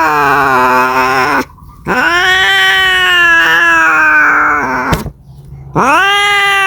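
A domestic cat caterwauling in long drawn-out yowls, the call of a cat seeking a mate. The calls come three times with short breaks between them. Each one swoops up at the start, then slides slowly down in pitch.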